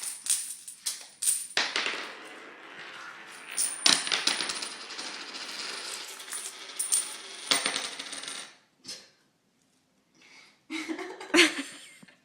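Metallic jingling and clattering, many small clicks in quick succession, that stops about eight and a half seconds in and returns in a short burst near the end.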